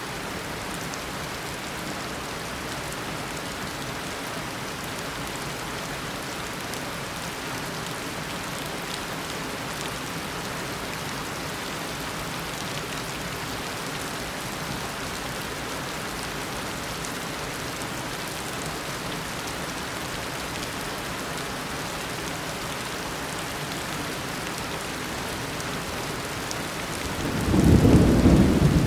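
Steady heavy rain of a tropical downpour, then a loud low rumble of thunder near the end.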